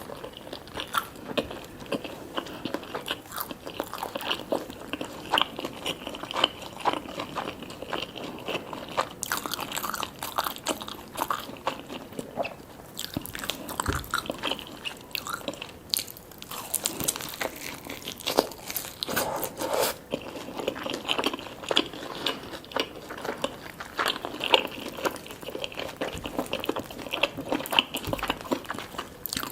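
A person biting and chewing crunchy food close to the microphone: a dense, irregular run of crunches and wet chewing throughout.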